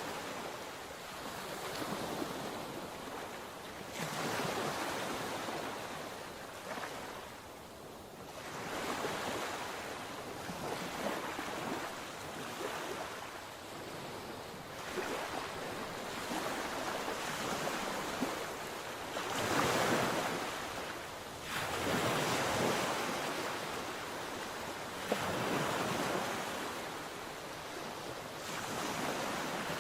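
Sea waves breaking and washing on the shore, each surge swelling and falling back every few seconds, with some wind on the microphone.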